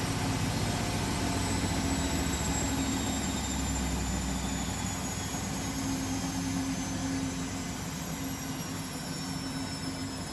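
Beko WML 51211 EL+ washing machine in its spin, the drum and motor slowing: a high whine falls steadily in pitch over a steady hum.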